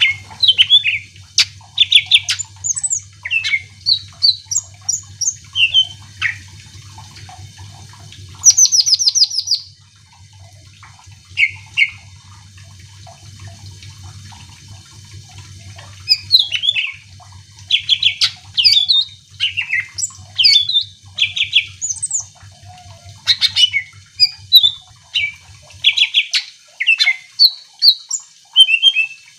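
Cucak ijo (greater green leafbird) singing a fast, varied song of loud whistled phrases, trills and sharp chips, with a pause of a few seconds about a third of the way in.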